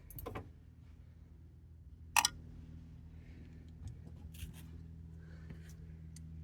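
A few short, sharp clicks and knocks of hand tools working on a diesel engine while glow plugs are being removed, the loudest about two seconds in, over a steady low hum.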